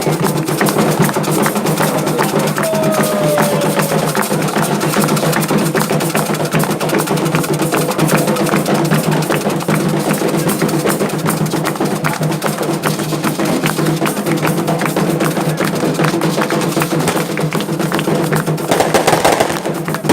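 Afro-Brazilian ceremonial drumming for Xangô: hand drums played in a fast, steady rhythm with sharp clicking strokes on top.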